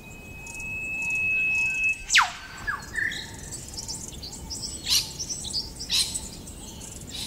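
Birds calling: a long held whistle, then a loud call sweeping steeply down in pitch about two seconds in, followed by short notes, many small high chirps and two sharp calls near the end. Faint calls repeat steadily underneath.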